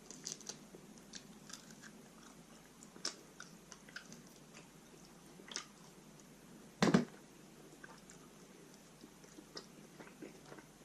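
Close-up eating sounds: biting and chewing a roast chicken wing, with scattered small crunches and mouth clicks and one louder knock about seven seconds in.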